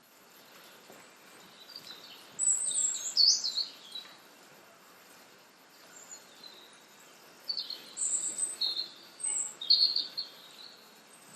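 Birdsong: two bursts of high, quick chirping notes, the first about two and a half seconds in and the second around eight seconds in, over faint background hiss.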